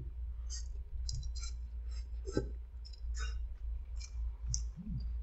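A person chewing a mouthful of noodles: a run of irregular, wet mouth clicks and smacks, over a steady low hum.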